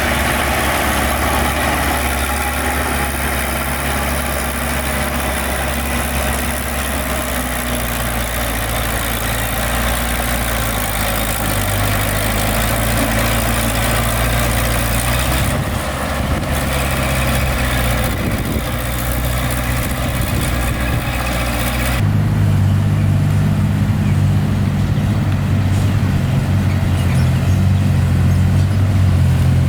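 Heavy construction-machine diesel engine running steadily. About three-quarters of the way through, the sound changes abruptly to a deeper, slightly louder engine note.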